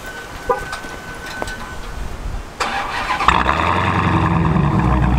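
Dodge Challenger SRT Hellcat's supercharged 6.2-litre HEMI V8 starting through its mid-muffler-deleted exhaust: a high beep for about two seconds, then the starter cranks a little over halfway in, the engine catches with a loud burst and settles into a loud, steady idle.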